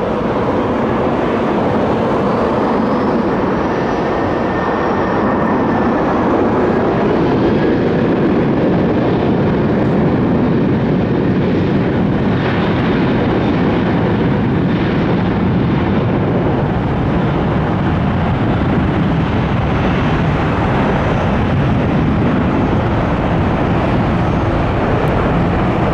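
Boeing 767-300 freighter's jet engines running loudly and steadily as the airliner comes in to land, with a faint whine falling in pitch in the first few seconds.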